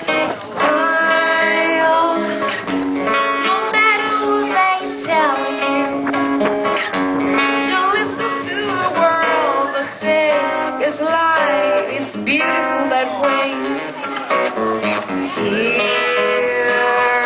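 Acoustic guitar played live, with a woman singing over it.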